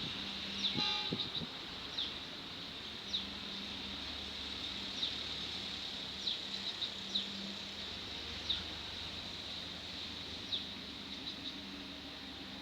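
Birds chirping: short, high, downward-sliding calls every second or two, over a steady low hum.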